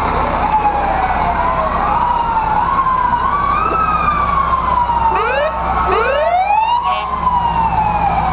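Fire truck sirens wailing, their pitch sliding slowly up and down, with two quick rising whoops about five and six seconds in, over a steady low rumble.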